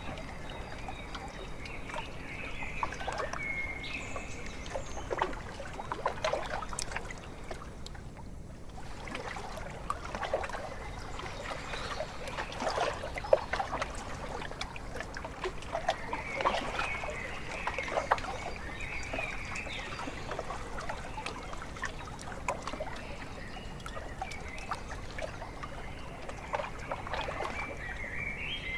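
Small lake waves lapping and splashing irregularly against the shore, with birds calling a few times over the water.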